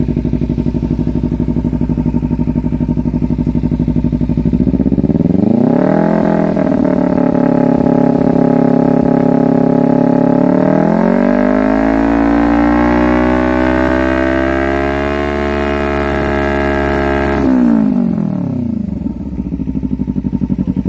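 Kawasaki Ninja 300's parallel-twin engine through an MGP Growler aftermarket exhaust, idling and then revved in place. It rises to a held 4,000 rpm, climbs again to a held 9,000 rpm, and then falls back to idle.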